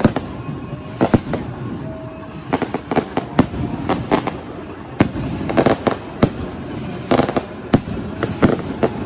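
Firecrackers going off in quick, irregular bangs, often several in a row, over a steady background din.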